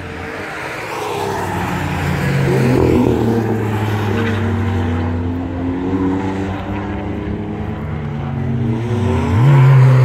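Car engines running on a race circuit, their notes rising and falling as the cars pass and growing louder. Near the end one engine's pitch jumps up sharply as a car accelerates hard close by.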